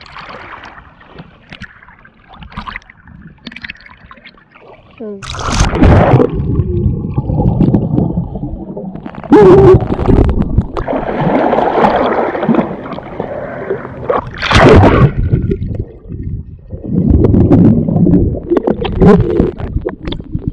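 Sea water splashing and surging against the microphone as waves wash over and around it, loud and uneven, starting about five seconds in with several sharp splashes.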